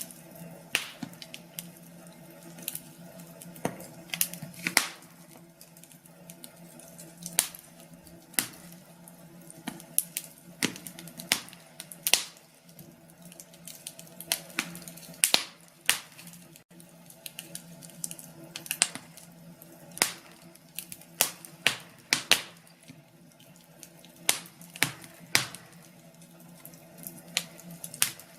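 Wood fire in a fireplace crackling, with irregular sharp pops, some louder than others, over a faint steady hum.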